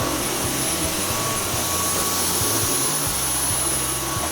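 Dyson V10 Animal cordless stick vacuum running steadily on a wooden floor through its extension wand and floor head, with a thin high-pitched whine over the rush of suction.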